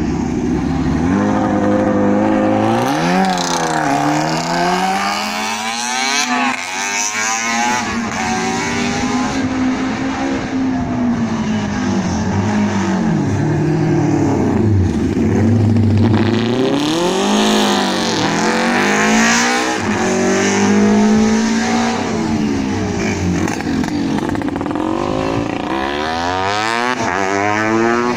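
Classic racing motorcycles' engines revving hard as they race past, several at once, pitch climbing through each gear and dropping at the shifts and as they pass.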